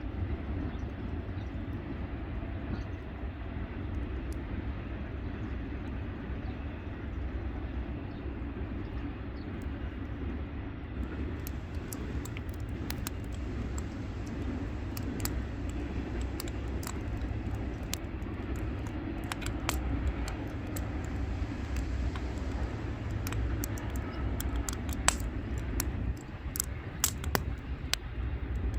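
Wood fire crackling, with sharp pops that start about a third of the way in and grow more frequent, over a steady low rumble.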